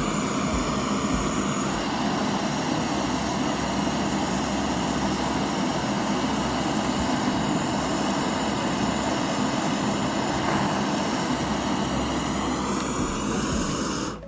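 A steady, loud mechanical noise that starts and stops abruptly.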